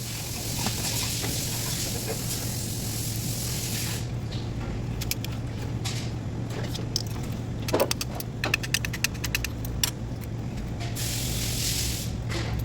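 A steady hiss over a constant low hum, which breaks off after about four seconds into a run of quick clicks and small metallic knocks from tool work. The hiss returns near the end.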